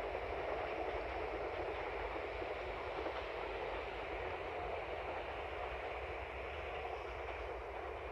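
Train running on the line, a steady rolling rumble of wheels on rail that eases slightly toward the end.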